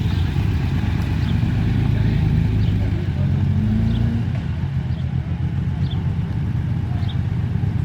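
Classic rally car engines running at low revs, a deep steady rumble, with one engine note held a little higher for a couple of seconds near the middle.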